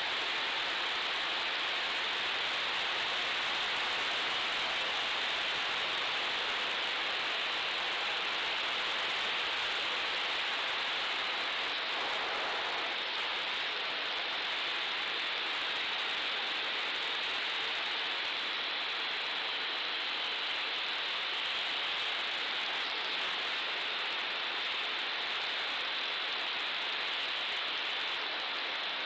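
Steady rushing hiss of airflow and propeller noise from a small FPV model airplane in flight, as picked up by its onboard camera.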